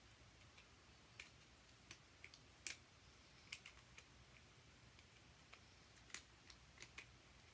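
About a dozen small, irregular clicks and taps of hard plastic and AAA batteries being handled and pressed into a battery compartment, over near silence.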